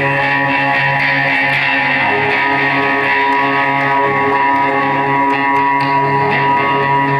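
Live band music led by guitar: layered, sustained notes held in a steady drone, with no clear beat.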